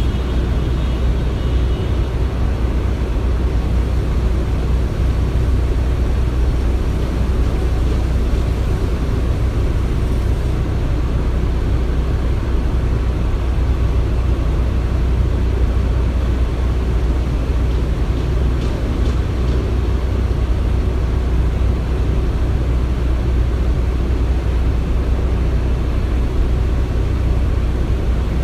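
Construction-site ambience: a steady, low rumble of running machinery with no distinct knocks or impacts.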